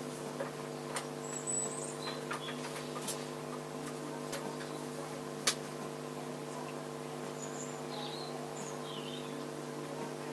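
Steady electrical mains hum with scattered light clicks and taps, and one sharper click about five and a half seconds in.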